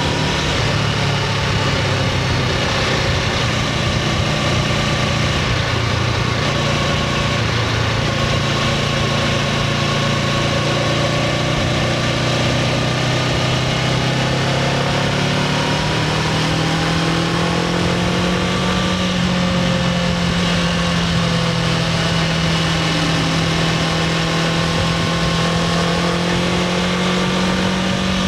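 Honda CBR500R parallel-twin engine running through its stock exhaust, loud and steady. Its note shifts a few times, then climbs gradually about halfway through and holds higher to the end.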